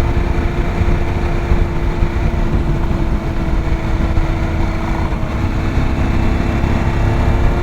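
Adventure motorcycle engine running at a steady cruise on pavement, with heavy wind rumble on the rider's microphone. The engine note sags slightly, then climbs a little again near the end.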